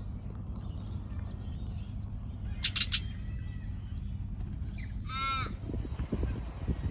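A bird calling outdoors: a quick cluster of short harsh calls about three seconds in, then one drawn-out call about five seconds in, over a steady low rumble.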